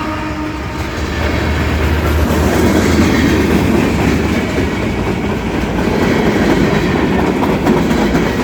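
Freight train rolling past close by: a steady loud rumble with the rhythmic clatter of its car wheels on the rails.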